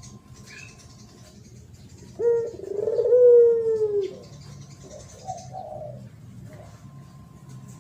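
Spotted dove cooing: one loud, drawn-out coo about two seconds in that sinks a little in pitch as it ends, then a fainter short coo a second later.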